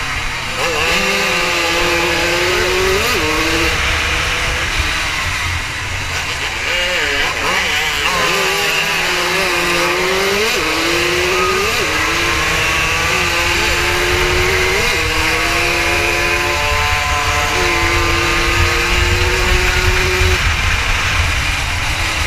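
80 cc racing motorcycle engine heard from on board at high revs, its pitch climbing and then dropping back again and again as it is shifted through the gears along the circuit, with a low wind rumble on the microphone.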